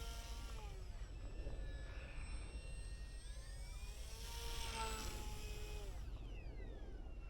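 Electric motor and propeller of an E-flite UMX Waco RC biplane whining faintly as it flies past twice, the pitch dropping as it goes by each time.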